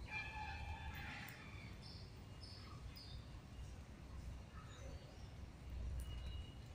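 Faint bird chirps and short whistled calls, a few scattered notes, over a steady low outdoor rumble.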